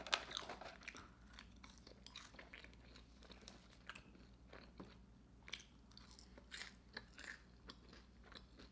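Faint, close-up chewing of a mouthful of food: irregular small wet mouth clicks and smacks, several a second, over a low steady hum.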